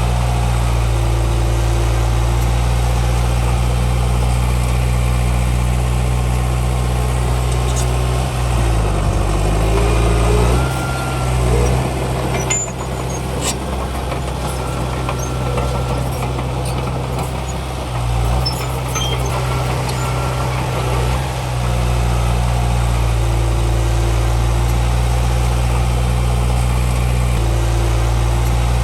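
Heavy diesel engine of an earthmoving machine running steadily. Its pitch dips and wavers about a third of the way in and shifts again about two-thirds of the way through as the load changes. A few sharp clicks come near the middle.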